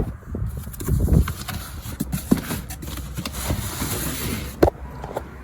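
Cardboard firework cake boxes being handled and moved about: an irregular run of knocks and thumps with some rustling, the sharpest knock near the end.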